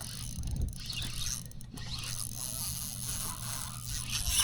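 Fishing reel being worked while a redfish is brought in, with irregular scraping and ratcheting mechanical noise.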